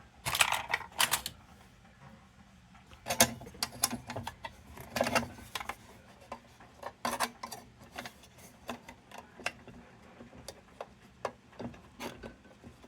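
Irregular metallic clicks, taps and clinks of a vintage kerosene lantern's metal parts being handled and worked at by hand, with busier clusters about half a second, three seconds and five seconds in.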